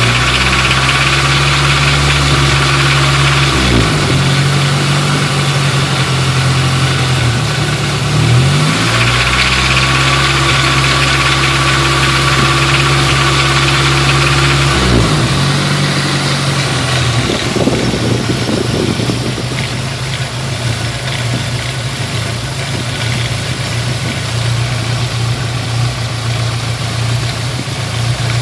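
1989 Nissan 240SX's KA24E four-cylinder engine held at raised revs in three long stretches with brief dips between, then dropping back to idle about halfway through. Above about 2500 rpm it makes a rattle that seems to come from the front cover, which the owner thinks could be a bad timing chain tensioner or the timing chain.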